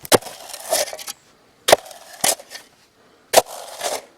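A shovel blade driven into packed stone and dirt at the bottom of a dug hole: four sharp strikes about a second apart, each followed by a gritty scrape of gravel and soil. The stone layer is what makes the hole so hard to dig.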